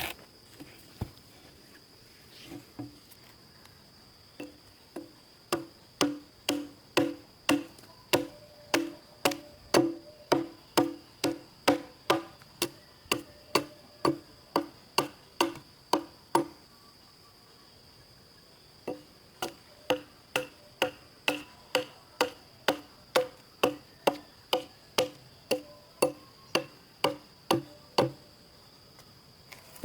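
Rapid rhythmic knocking, about two and a half strikes a second, in two long runs with a short pause between them, over a steady high insect drone.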